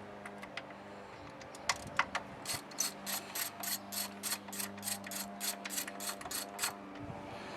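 Hand socket ratchet clicking as a bolt is worked, a few single clicks and then an even run of about four clicks a second that stops about a second before the end.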